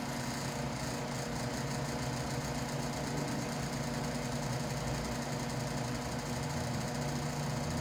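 A motor running steadily with a low hum and rattle.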